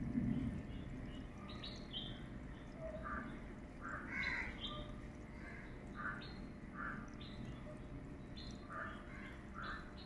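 Birds calling in the background: short chirps and calls, some single and some in pairs, coming every second or so over a steady low rumble.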